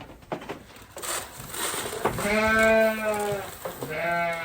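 A goat bleating twice: one long, steady call about two seconds in, then a shorter, lower one near the end.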